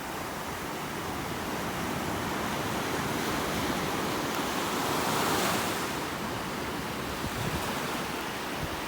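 Ocean surf washing in on the beach, swelling to its loudest about five seconds in and then easing off, with some wind buffeting the microphone.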